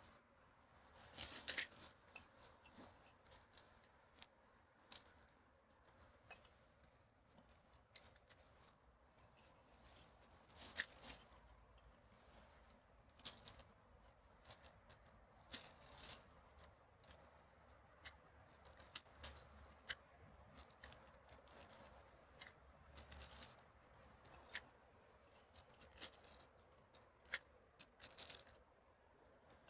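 Rustling and crackling of litter and dry forest floor being handled while trash is picked up, in irregular short bursts a second or two apart, the loudest about a second and a half in.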